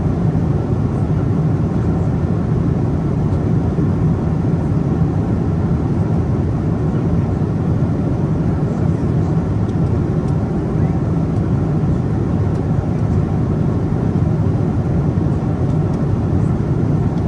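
Steady drone of a Boeing 777-200ER's cabin at cruise altitude, heard from an economy seat: even engine and airflow noise, deep and constant.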